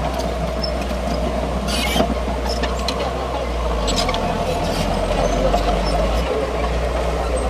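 Komatsu D31P crawler bulldozer's diesel engine running steadily, with squeaks and clinks from the tracks and blade linkage; the engine note shifts from about four to six seconds in.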